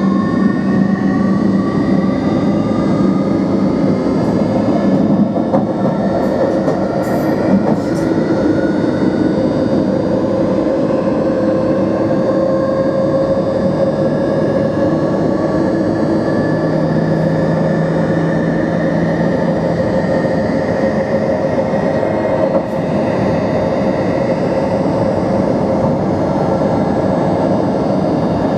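NMBS/SNCB AM80 'Break' multiple unit under way, its motors whining in several tones that rise in pitch over the first ten seconds or so and then hold steady, over continuous rail running noise. A few light clicks come in between about five and eight seconds in.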